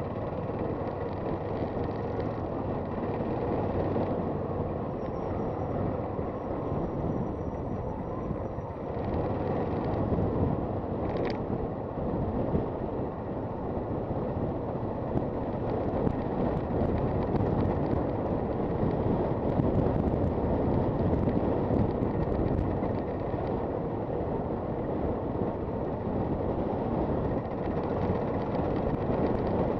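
Onboard sound of a Honda FT400 single-cylinder motorcycle being ridden: engine running under steady wind rush over the microphone.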